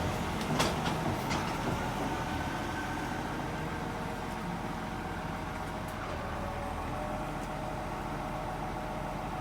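A vehicle engine running steadily at idle, with a few sharp clicks or knocks in the first second or two.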